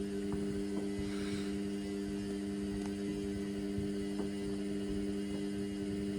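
Indesit washing machine running with a steady electrical hum, with a few faint ticks over it.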